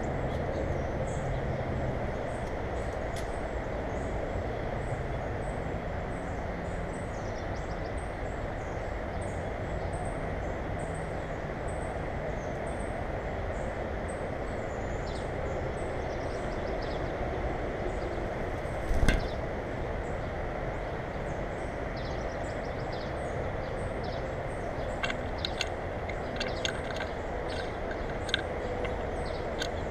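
Steady low rumbling background noise, with faint high chirps of small birds scattered through it. A single sharp knock comes about two-thirds of the way in, and a few light clicks follow near the end.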